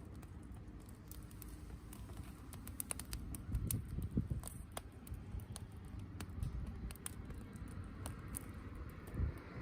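Wood campfire crackling: irregular sharp pops and snaps, several a second, over a low rumble.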